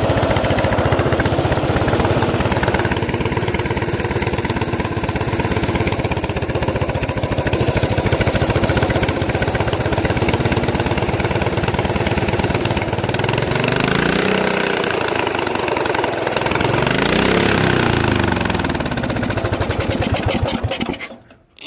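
Briggs & Stratton horizontal-shaft lawnmower engine running steadily. It revs up and back down twice in the second half, then cuts out near the end. The engine is running on oil diluted with gasoline, let in by a broken carburettor needle valve.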